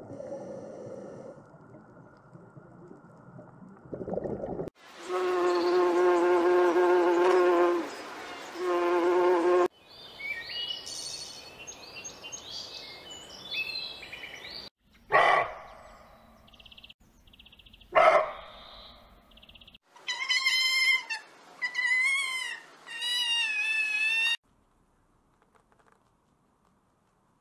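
A run of separate animal sound clips, one after another: an insect buzzing steadily for about five seconds with a wavering pitch, then assorted chirps, two short sharp calls and a few warbling calls, then silence for the last few seconds.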